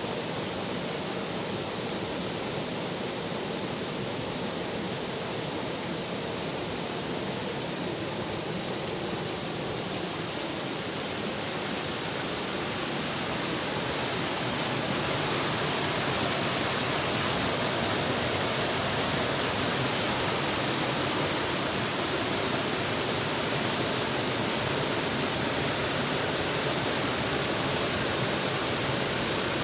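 Steady rushing of flowing river water, getting a little louder about halfway through and then holding even.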